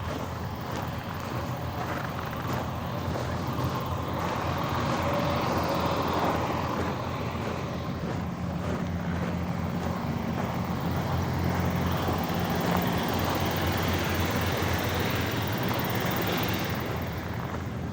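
A vehicle's engine running steadily with a low drone, under road and wind noise that swells through the middle and eases near the end.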